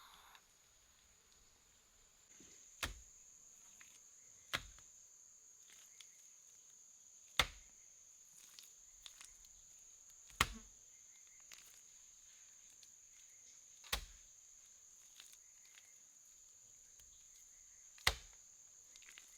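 Insects chirring in one steady high drone, which grows louder about two seconds in. Six sharp knocks or cracks sound at irregular gaps of two to four seconds over it.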